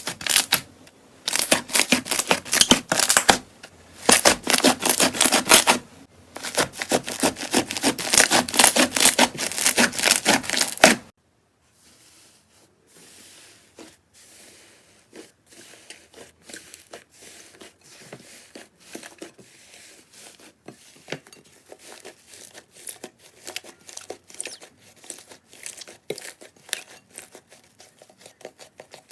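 Slime being squeezed and pressed by hand. Loud, dense crackling comes in bursts through the first eleven seconds, then stops suddenly and gives way to quieter, scattered clicks and pops.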